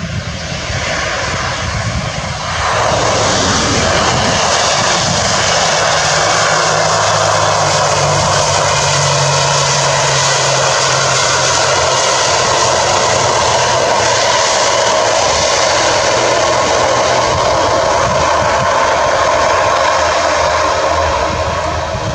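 ATR 72 turboprop airliner's Pratt & Whitney PW127 engines and propellers running at high power, a steady propeller drone with a hum over engine noise. It grows louder about two and a half seconds in, holds, and eases slightly near the end.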